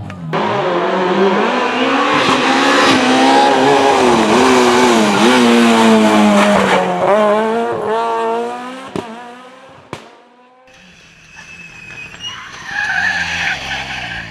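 Rally car engine passing at full effort, its pitch climbing and dropping through gear changes and lifts as it takes the stage, with tyre noise underneath. It fades away after about nine seconds, with a couple of sharp pops, leaving a quieter stretch near the end.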